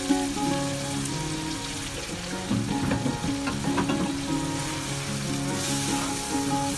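Food frying and sizzling in a pan while it is stirred, with a few utensil clicks around the middle, under background guitar music.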